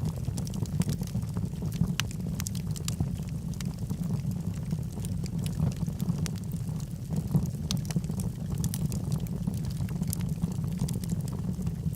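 Log fire burning in a fireplace: a steady low rumble of the flames with frequent small, sharp crackles and pops from the wood.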